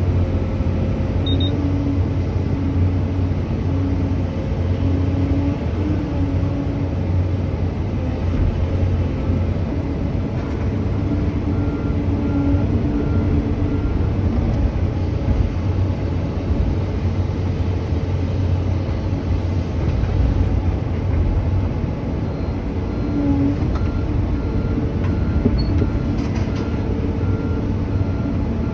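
A 4-ton truck's diesel engine running steadily, a continuous low hum with engine and road noise.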